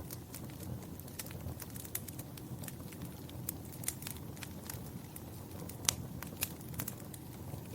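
Fire crackling: a steady low rumble with frequent sharp pops and snaps, one louder pop about six seconds in.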